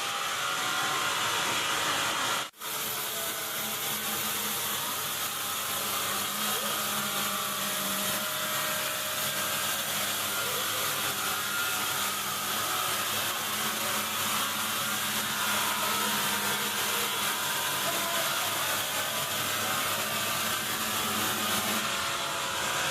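Woodworking power machine running steadily as it works wood, with a continuous even noise. It cuts out for an instant about two and a half seconds in, then resumes.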